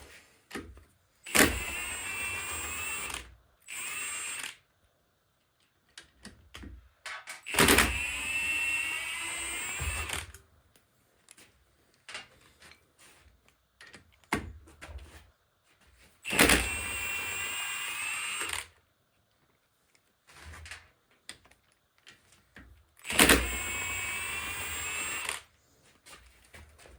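A cordless power tool, such as a drill or electric ratchet, run in four bursts of about two seconds each with a whine that wavers in pitch, with small clicks of parts and tools between the bursts.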